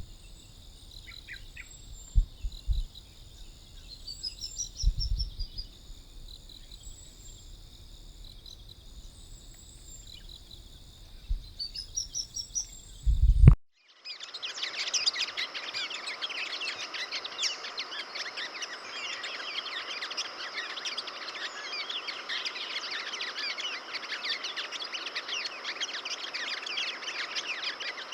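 Sunbird chirping in short rising-and-falling phrases over a steady high insect drone, with a few low thumps. About halfway through, the sound cuts off abruptly into a dense chatter of many birds calling at once.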